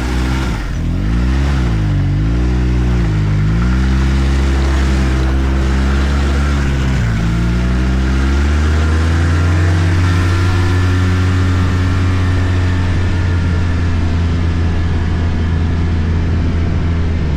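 Arctic Cat F1100 turbo snowmobile engine under way. Its revs rise and fall several times as the throttle is worked, then climb from about eight seconds in and hold steady at high revs.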